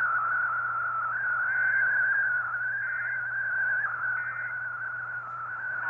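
Weather-radio warning broadcast audio carrying a loud, slightly wavering whistle-like tone over hiss and a steady low hum, with the thin, narrow sound of radio.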